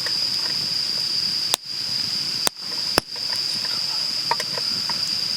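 Insects in the forest trilling steadily at a constant high pitch, with three sharp clicks in the middle.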